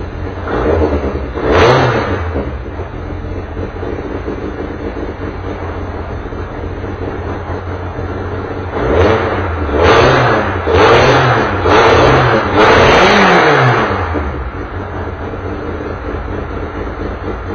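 Touring race car engine idling, revved in short throttle blips: two near the start, then four or five in quick succession later on, the last held longest.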